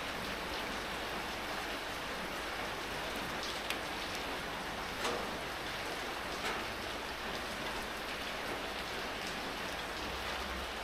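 Steady rain falling, an even hiss with a few louder single drops striking close by, about four and five seconds in and again near six and a half.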